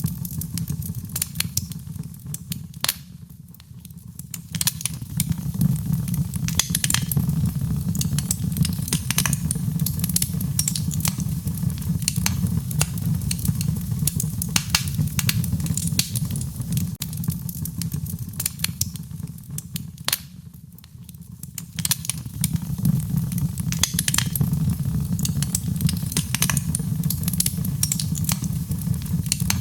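A wood fire crackling, with frequent sharp pops and snaps over a low, steady rumble of burning. Twice the low rumble briefly drops away, leaving mostly the crackles.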